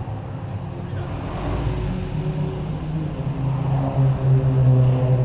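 Vehicle engine with an open, unsilenced exhaust running steadily. Its note lifts slightly about a second and a half in and gets louder near the end.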